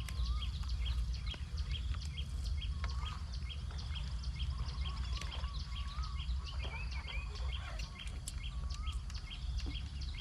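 Birds calling over a steady low rumble: short high chirps repeat about twice a second, with a few lower, wavering whistled notes between them.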